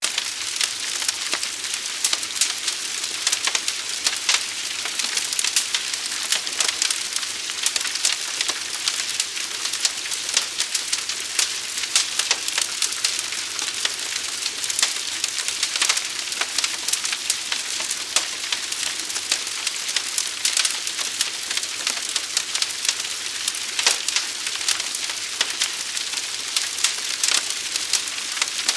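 Fire crackling: a steady hiss thick with many small sharp pops and snaps.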